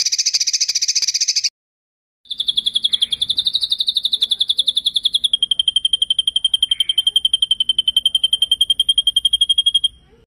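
A songbird's rapid rolling trill, the kind of song played to train competition birds. A short buzzy trill cuts off abruptly about a second and a half in. After a brief gap comes a long, fast trill of about a dozen notes a second, which steps slightly lower in pitch about halfway and holds steady until shortly before the end.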